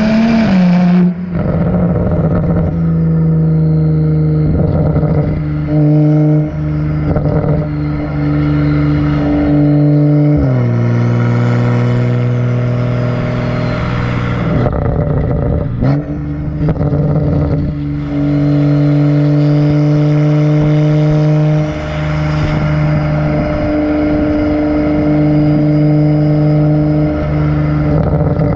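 Exhaust of a BMW 135i's N55 turbocharged inline-six, run catless with the muffler deleted. The engine revs up and breaks off at the start, then holds a steady drone for long stretches. Its pitch steps down about ten seconds in, and there are several brief lifts in between.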